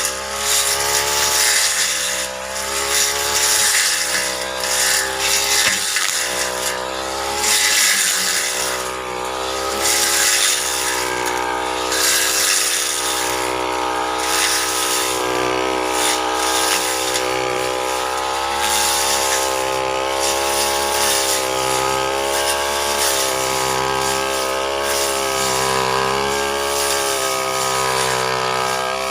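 Brush cutter engine running at high revs, its pitch sagging and recovering as the blade cuts. During the first twelve seconds or so there are bursts of hissy cutting noise from the blade hitting vegetation.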